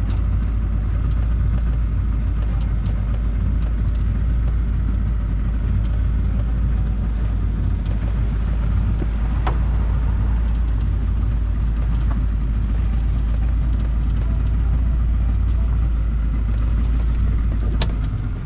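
Motorboat running on the lake, a loud, steady low rumble with heavy wind buffeting on the microphone. Two sharp knocks come through, about halfway and near the end.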